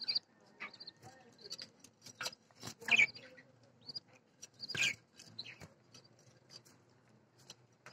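Budgerigars chirping: many short, high chirps, with two louder, harsher calls about three and five seconds in.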